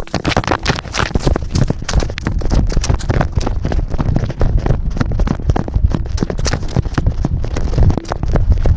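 Rapid, irregular patter and clatter of a running cat's paws and claws on a hard surface, many quick taps a second over a low rumble.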